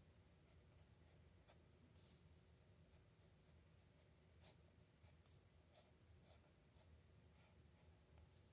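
Nib pen scratching faintly across paper in a dozen or so short, irregular strokes, as in handwriting or signing.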